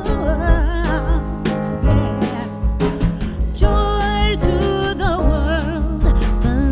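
A song: a vocalist singing a melody with vibrato over a band with bass and a steady drum beat.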